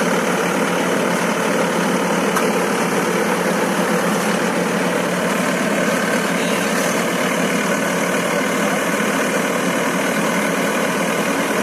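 Pile driver's diesel engine running steadily at a constant speed, with no hammer blows.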